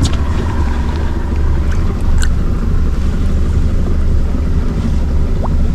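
Steady low wind rumble on the microphone over an even hiss, with no clear single event.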